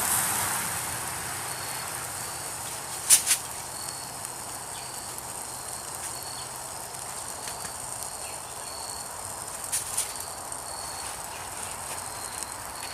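An insect chirping in short, evenly spaced pulses over a steady outdoor hiss. A pair of sharp clicks comes about three seconds in, and another pair near ten seconds.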